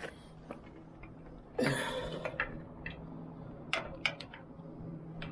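Scattered light clicks and ticks of handling, with a louder rustling burst about a second and a half in, over a faint steady hum.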